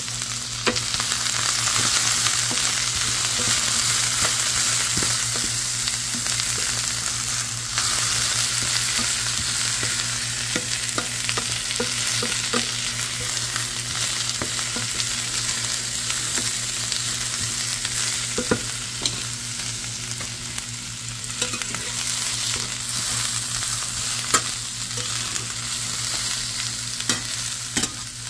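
Chopped vegetables sizzling in a hot stainless steel pan as they are stir-fried, with a spatula scraping and clicking against the pan now and then.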